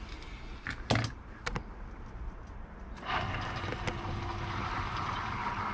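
A few light clicks, then about three seconds in a small submersible pump starts and runs steadily with a low hum and a rush of flowing liquid, circulating vinegar through a tankless water heater to descale it.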